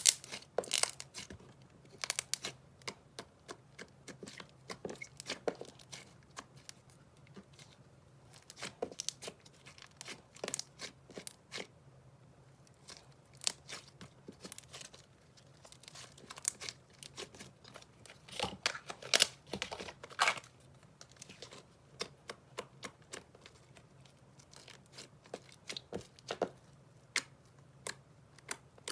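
Slime being squished and stretched by hand, giving irregular sticky clicks, pops and crackles, with a louder run of pops about two-thirds of the way through.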